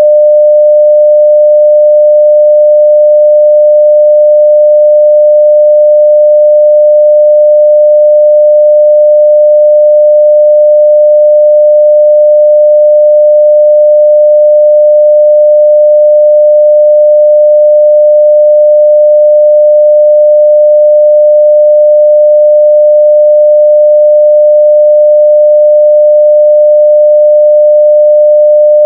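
A loud, steady 600 Hz sine-wave test tone at full scale, one pure pitch held without change.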